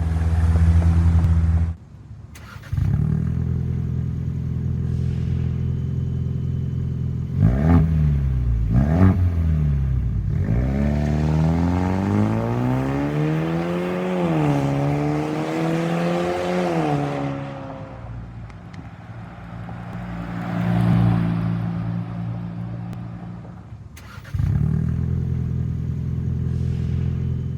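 Ford Bronco 2.3L turbocharged four-cylinder running through an MRT King of the Hill aftermarket exhaust with a turn-down tip: idling, then two quick blips of the throttle, then a longer rev that climbs and wavers before dropping back to idle, with another short swell before settling.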